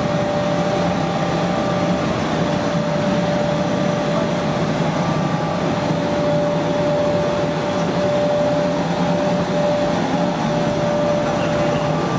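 Chili powder roller mill running steadily: a constant machine noise with one steady humming tone through it.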